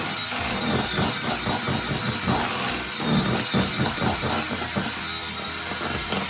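Electric hand mixer running steadily, its beaters churning through thick cookie dough.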